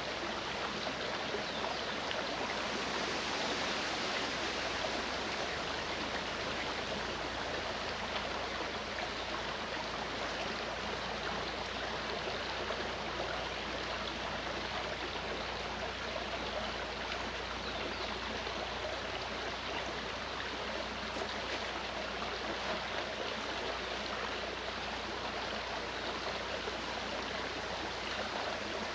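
Clear mountain stream flowing over rocks, a steady rushing and babbling of water.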